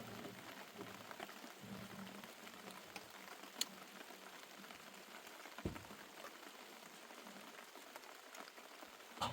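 Faint steady patter of rain, with a few sharper knocks scattered through it, three of them louder than the rest.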